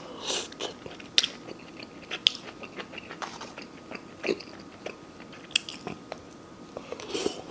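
A person chewing and biting a mouthful of stir-fried meat and vegetables close to the microphone: wet mouth sounds with scattered sharp clicks and smacks at irregular intervals.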